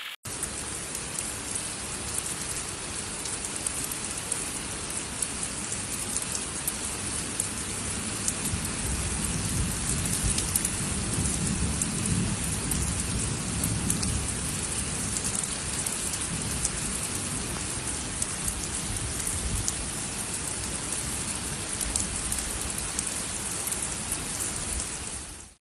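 Heavy rain falling steadily on a concrete rooftop, a dense hiss of drops with a deeper rumble swelling through the middle. It cuts off just before the end.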